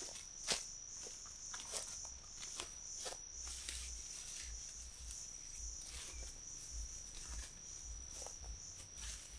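Crickets chirping in a steady high-pitched trill, with irregular sharp clicks and snaps scattered through it.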